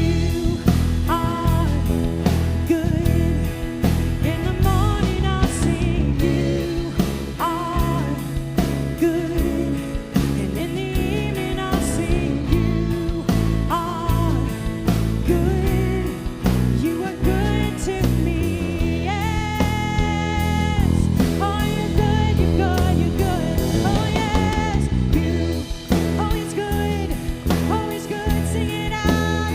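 Live worship band playing a song with a steady drum beat, with a voice singing over it.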